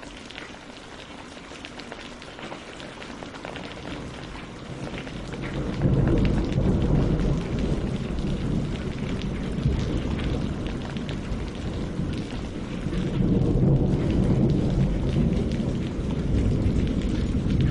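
Steady rain falling on leaves and lake water, with scattered individual drop hits. About five seconds in, a long low rumble of thunder builds and rolls on, swelling again twice.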